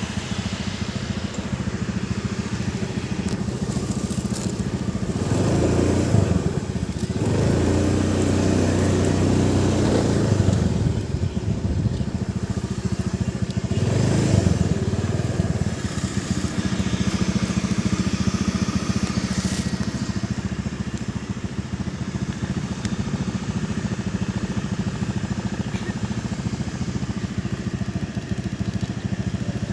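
A small engine running steadily, growing louder for several seconds from about five seconds in and again briefly near the fourteen-second mark.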